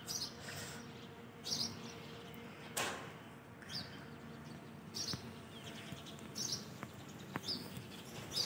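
Small birds chirping now and then: short high calls every second or so over a quiet background, with a few faint knocks, the loudest about three seconds in.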